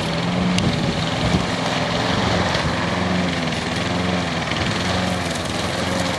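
Lawn mower engine running steadily, its pitch wavering up and down as it works through the grass.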